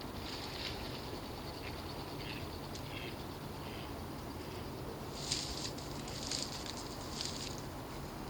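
A family of ducks splashing as they bathe and dive in water, in short bursts: one near the start and three about a second apart in the last three seconds.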